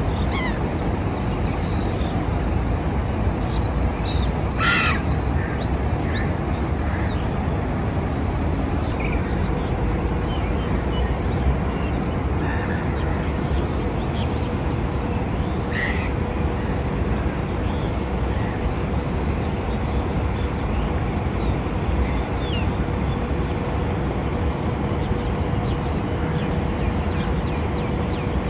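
Gulls calling: a few short, scattered calls, the loudest about five seconds in, over a steady outdoor noise with a faint constant hum.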